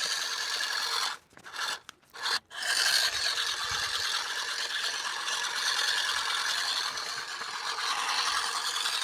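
Steady rasping of a tool cutting or filing PVC, broken by a few short pauses about a second in.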